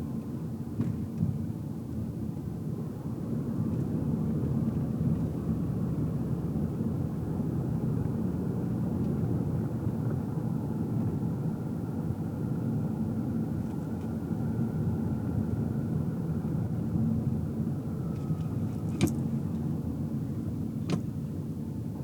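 Car driving noise heard from inside the cabin: a steady low rumble of engine and tyres on the road. Two short sharp clicks come near the end.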